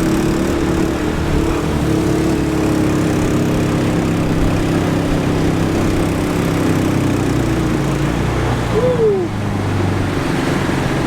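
A vehicle's engine running steadily at an even speed, as if heard from on board while driving. About nine seconds in there is a brief squeak that rises and then falls.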